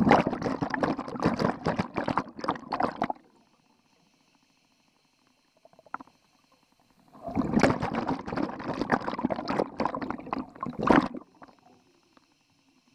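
Scuba diver breathing underwater: two exhalations through the regulator, each a burst of bubbling about three to four seconds long, with a quiet inhalation between.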